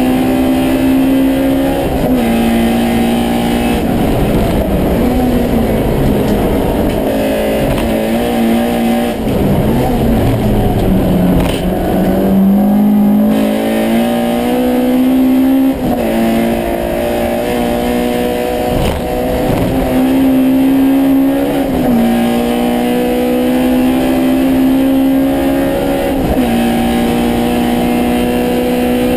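Honda Civic race car's four-cylinder engine heard from inside the stripped cabin, running hard through the gears: its pitch climbs slowly and drops abruptly at each upshift, several times. About ten seconds in it falls away as the car slows for a corner, then climbs again.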